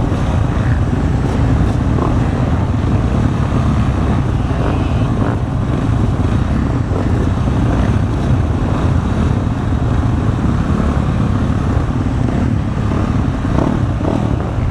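Motocross dirt bike engine running, heard as a steady, dense low rumble.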